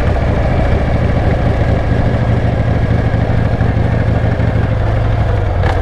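Motorcycle engine running steadily while riding, with a broad rush of wind noise over it and a brief click near the end.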